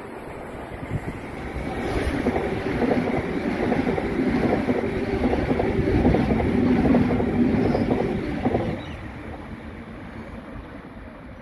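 Double-deck electric passenger train passing close by: a steady rumble with dense wheel clatter on the rails. It swells about two seconds in and drops away sharply about nine seconds in as the last carriage goes by.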